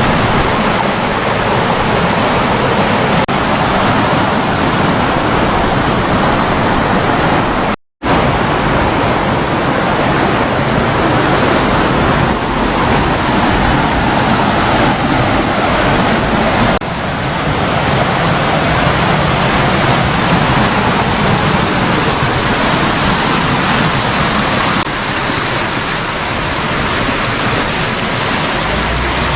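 Mountain stream rushing over bedrock: a steady, loud wash of water, broken by a brief cut about eight seconds in.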